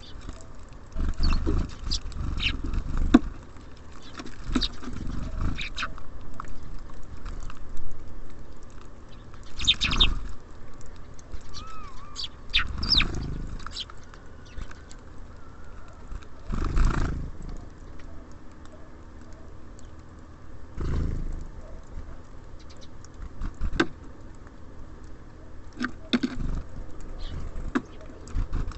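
Small birds at a bird feeder: irregular knocks and taps as they land and peck, with a few short high chirps.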